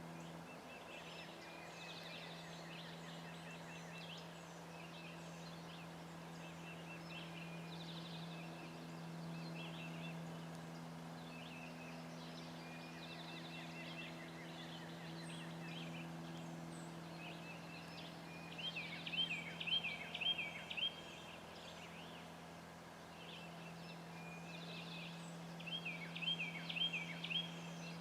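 Wild turkey calling: two louder series of quick repeated notes, about two-thirds of the way through and again near the end. Small songbirds call throughout, over a steady low hum.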